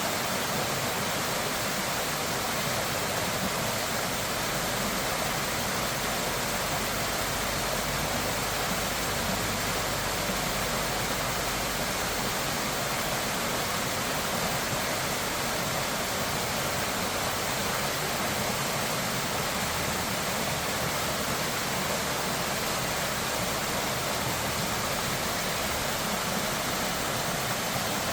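Steady rush of fast-flowing rain-fed water, an even roar with no breaks.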